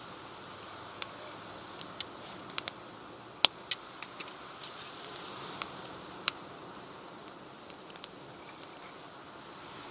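Campfire crackling: sharp, irregular pops and snaps, thicker in the first half, over a steady hiss.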